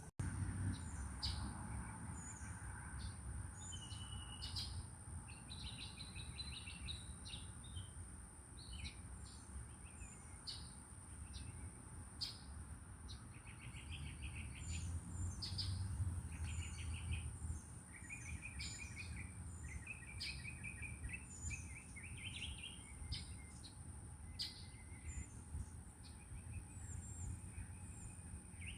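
Several birds chirping and calling, with short repeated notes and trills overlapping throughout, over a steady low rumble.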